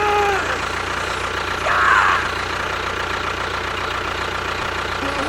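An engine idling steadily. A short pitched call sounds right at the start, and a brief higher sound comes about two seconds in.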